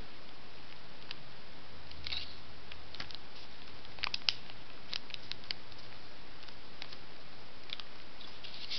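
A sheet of paper being handled, folded and creased by hand: scattered soft crinkles and small taps over a steady hiss.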